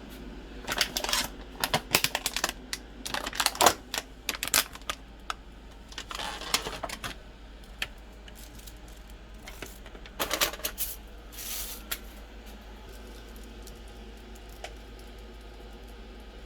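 Clusters of clicks and clatters from small hard objects being handled, coming in several bursts separated by quieter gaps with a low steady background hum.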